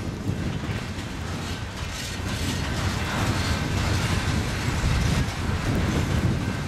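BNSF freight train rolling past: a steady rumble of steel wheels on rail, with clacking as the wheels cross rail joints.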